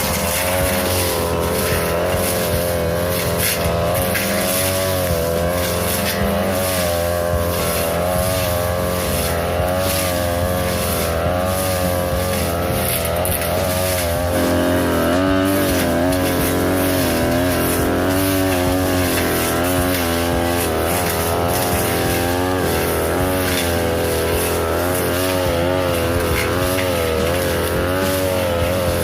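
42cc brush cutter engine running at high revs with a short metal blade cutting tall grass and brush; its pitch wavers constantly and dips again and again in the middle as the blade bites into thicker growth.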